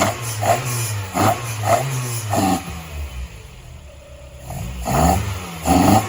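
A vehicle engine idling and being revved in short, repeated blips, dropping back for a second or so in the middle before the blips pick up again.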